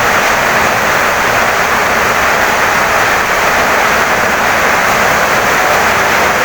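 Heavy rain pouring down in a loud, unbroken hiss, steady throughout.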